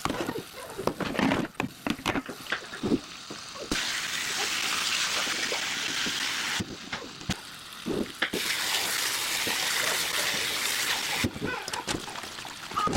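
Kitchen tap running in two stretches of about three seconds each, rinsing strawberries in a bowl, with short knocks and clatter before, between and after.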